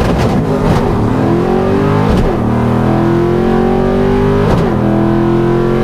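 Ford 5.0 V8 pulling hard under acceleration through the gears of a manual gearbox. Engine pitch climbs steadily in each gear and drops at each shift; the shifts come about two and a half seconds apart, right at the start, about two seconds in and past the halfway point.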